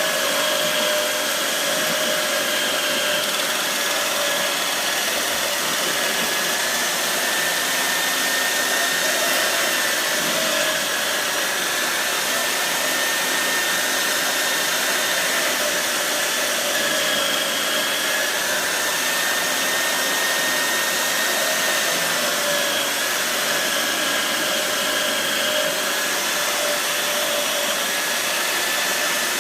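Electric sanding machine running steadily under light work, a continuous motor noise with a steady whine that wavers slightly in pitch.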